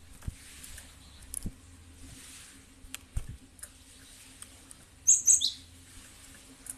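Gelatik batu (cinereous tit) chirping: faint scattered high notes, then a loud short burst of sharp high chirps about five seconds in. A few soft knocks come before it.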